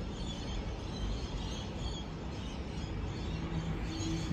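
Birds chirping over a steady low rumble of background noise; a steady low hum comes in about three seconds in.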